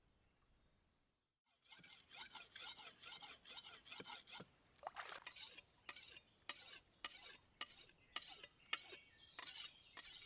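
Rhythmic scraping strokes of a kitchen utensil during food preparation. The strokes come quickly and close together at first, then separate at about two a second.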